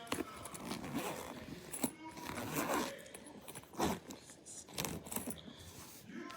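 Zipper on a makeup train case being pulled in several short strokes, with some handling scrapes.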